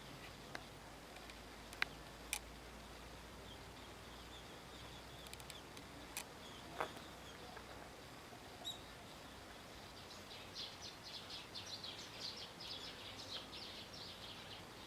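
Faint chirping of small birds, with a rapid run of high chirps in the last few seconds and a few scattered clicks earlier.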